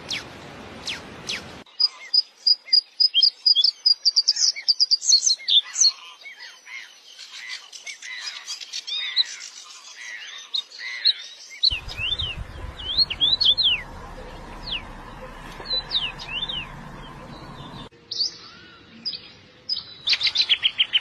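Small songbirds chirping and singing: many quick, high, rising and falling chirps and trills. The background changes abruptly three times, as separate recordings are joined one after another.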